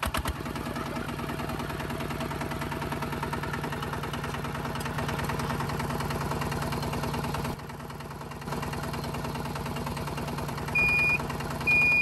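Small motor of a homemade miniature tractor running steadily with a fast, even pulsing, dropping briefly in level about two-thirds of the way through. Two short high beeps sound near the end.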